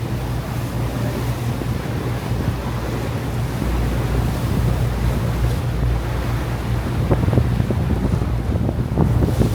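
Ferry's engine droning steadily, under the rush of the sea along the hull and wind buffeting the microphone.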